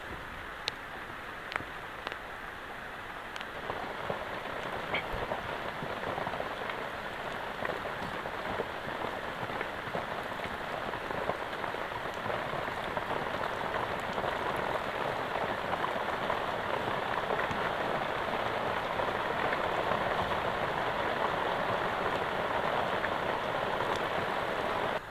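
Heavy rain falling, growing steadily louder from a few seconds in, with a few sharp drip-like ticks in the first seconds; it cuts off suddenly at the end.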